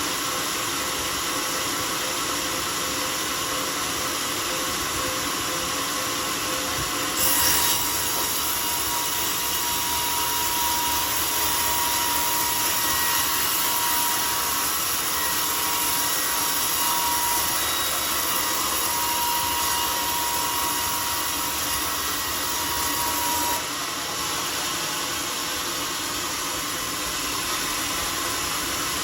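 Homemade sawmill running, its saw blade cutting through a teak log from about seven seconds in until a few seconds before the end, with a steady whine during the cut.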